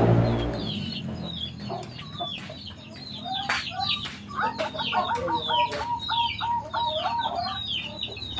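Zebra doves (perkutut) and other birds calling. Short high descending chirps run throughout. Midway, about two seconds of rapid repeated low cooing notes.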